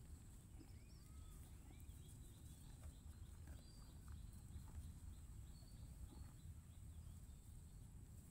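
Near silence in an open pasture: a faint low rumble of wind and a few soft ticks, with a small bird faintly chirping a quick run of repeated high notes through the middle.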